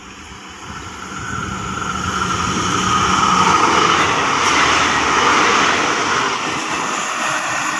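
Thai State Railway Sprinter diesel multiple unit passing at speed through a station without stopping. It grows louder as it approaches and is loudest about four seconds in as the carriages go by.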